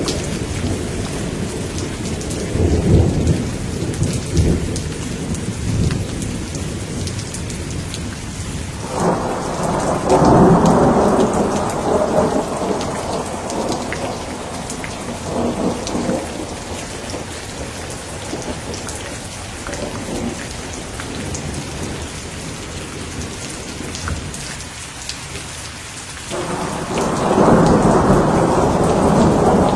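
Steady rain with rolling thunder. There is a low rumble a few seconds in, then a loud peal starts suddenly about nine seconds in and rolls on for several seconds. Fainter rumbles follow, and another loud roll of thunder begins near the end.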